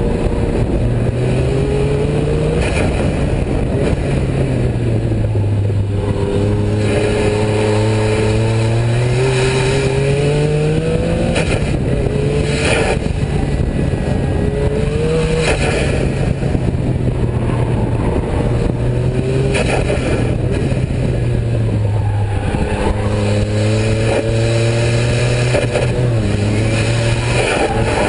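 Noble sports car's twin-turbo V6 being driven hard on track, its pitch climbing under acceleration and dropping back at each gear change or lift, several times over, with a short sharp noise at some of the changes. A steady rush of road and wind noise runs underneath.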